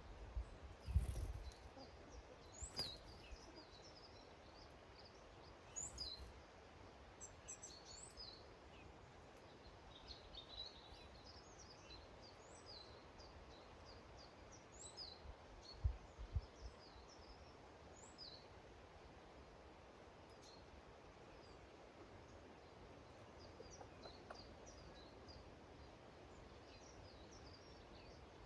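Small garden songbirds chirping and calling around a bird feeder: many short, high, faint notes scattered throughout, with a couple of soft low thumps.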